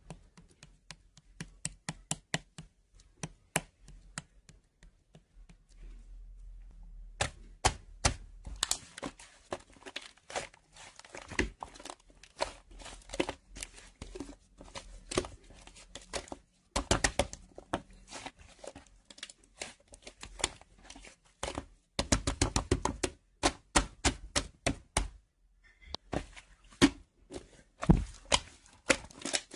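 Irregular run of small sharp clicks and taps, sparse at first and coming thick and fast from about seven seconds in, with a short pause near the end.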